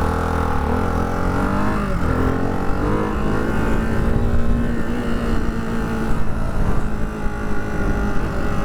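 Ducati Hypermotard 698 Mono's single-cylinder engine running under way. Its pitch rises and falls through the first few seconds, then holds steady at cruising revs.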